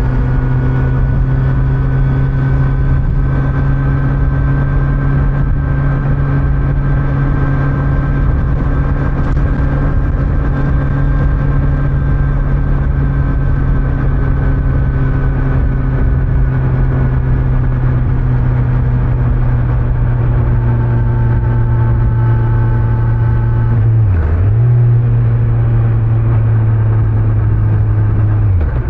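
2025 Kawasaki Z900's inline-four engine, stock exhaust, running at a steady cruise under way. The engine note holds nearly constant and dips briefly twice, once a few seconds before the end and again at the very end.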